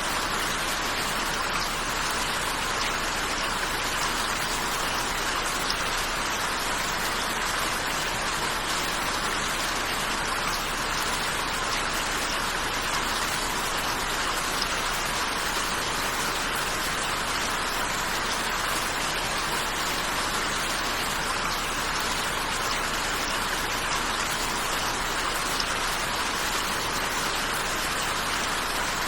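Steady rain falling, a dense even patter of raindrops on a surface.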